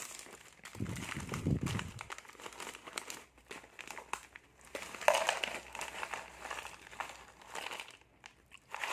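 Plastic snack packets crinkling and rustling as they are handled and opened by hand, in irregular crackles, with a low handling rumble between about one and two seconds in and a louder rustle about five seconds in.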